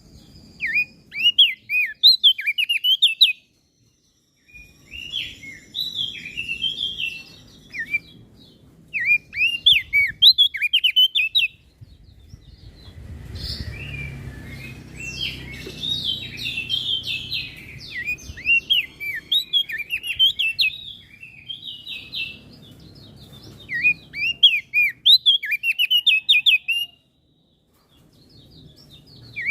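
Opior jambul (crested dark-eye) singing in repeated bursts of quick, high, slurred chirping phrases, each lasting one to three seconds with short pauses between, over a low rumble that is strongest in the middle.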